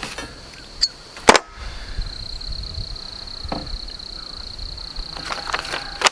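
A sharp metal clank about a second in and a few lighter clicks near the end as parts of an Alaskan mill's guide rails are handled and set down, over a steady high-pitched insect drone.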